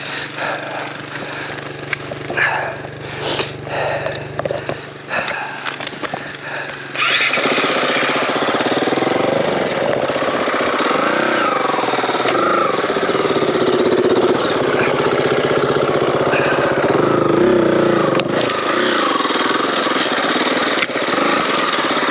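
Dirt bike's single-cylinder four-stroke engine idling steadily under scattered clicks and crackles. About seven seconds in, it gets much louder as the bike rides off along the trail, the engine note rising and falling with the throttle.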